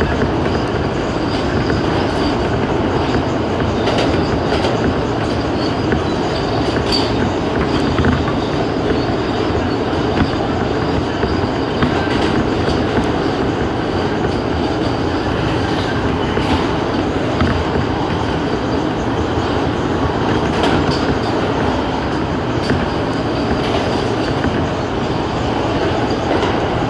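New York City Subway A express train running along the track: a steady rumble of wheels on rail, with irregular clicks over the rail joints and a faint high wheel squeal now and then.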